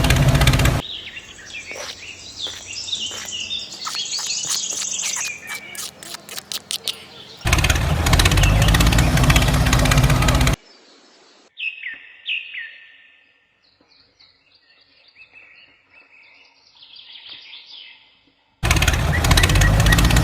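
Stretches of a loud, steady engine running, broken by two quieter passages: one of rapid clicking with chirps, and one of short bird-like chirps falling in pitch.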